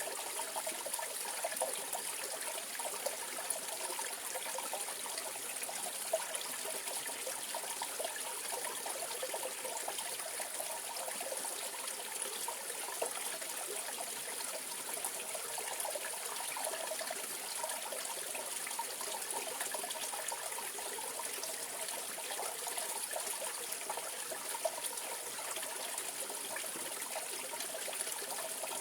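Mountain stream water flowing and trickling over rocks, a steady babbling with small splashes.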